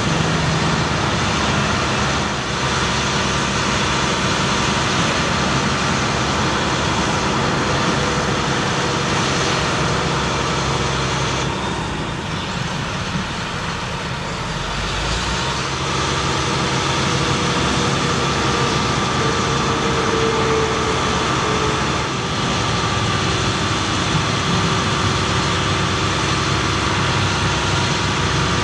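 Engine of a 2007 Ford F750 bucket truck running steadily. The sound dips about twelve seconds in and comes back up around sixteen seconds.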